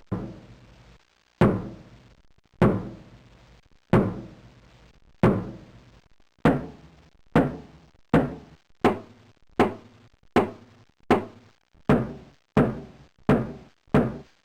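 A series of heavy knocks, each ringing out briefly. They start about one every second and a bit, then come steadily faster, about one and a half a second by the end.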